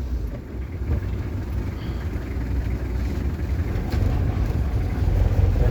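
Truck engine running with a low rumble that drops as the clutch goes in for the change into third gear, then builds back up gradually as the truck accelerates in the new gear.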